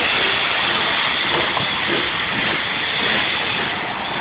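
Steam-hauled train's coaches rolling close past: a steady loud rushing of wheels on the rails amid drifting steam, easing slightly near the end.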